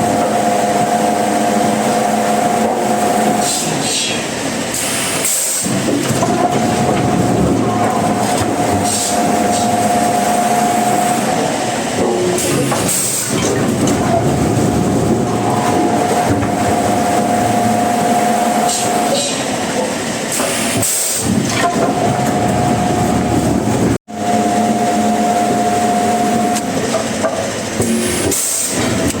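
Sawmill saw running and cutting timber: a loud, steady mechanical noise with a whining tone that comes and goes, broken by a few brief drops, one a sudden cut to silence about two-thirds of the way through.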